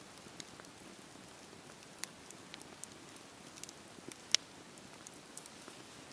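Wood fire in a fireplace crackling, with scattered sharp pops over a soft steady low rustle of the flames; one loud pop about four seconds in.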